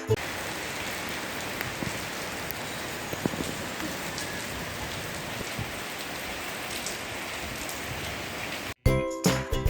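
Steady rain falling: an even hiss with a few scattered drop ticks. It cuts off shortly before the end, when jingly background music comes back in.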